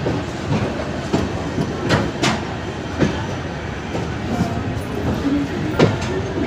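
Passenger train running along the track: a steady rumble with the wheels clacking over rail joints a few times at irregular intervals.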